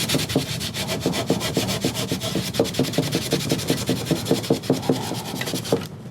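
Vigorous back-and-forth scrubbing on a wooden chair part, lifting old oils and wax with a cleaner. It is a fast, even rhythm of several strokes a second and stops just before the end.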